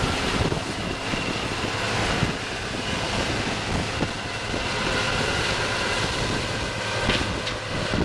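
Combine harvester running steadily while harvesting corn: a constant mechanical drone with a faint steady whine over it.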